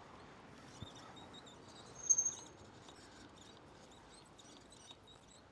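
Faint, high-pitched chirping of small birds, with one louder, short, high squeak about two seconds in.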